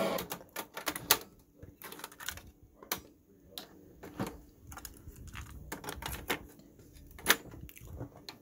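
A run of irregular sharp clicks and light taps, roughly one or two a second, with one louder click near the end.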